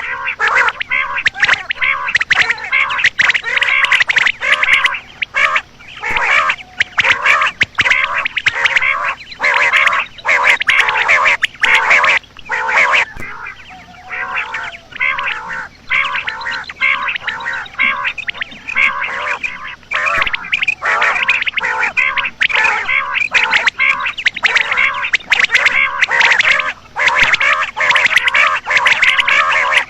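Common quail calling in dense bouts of rapid, repeated notes with only brief pauses, as used to lure quail in wheat-season hunting.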